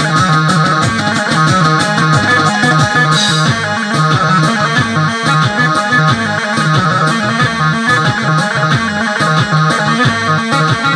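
Arabic-style music played on an Android arranger-keyboard app's Syrian sound set: a plucked-string melody over a steady programmed beat, with a brief cymbal-like splash about three seconds in.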